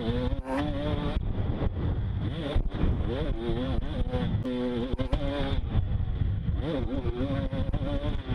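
Motocross bike engine revving, its pitch climbing and dropping several times, over a heavy low rumble with scattered knocks.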